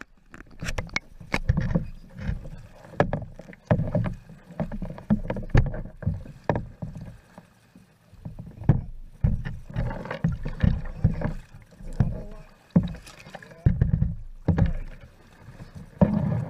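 Kayak being paddled and handled: an irregular run of knocks and thumps, roughly two a second, from the paddle and the boat, with a brief lull about halfway through.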